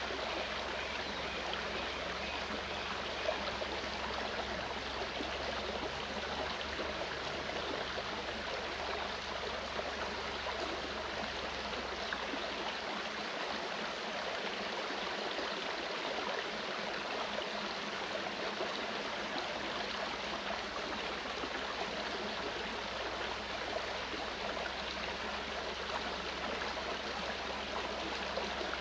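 Mountain stream flowing with a steady, even rush of water.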